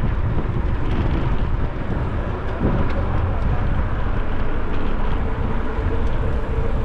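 Steady wind rush over the microphone with road noise while riding a bicycle.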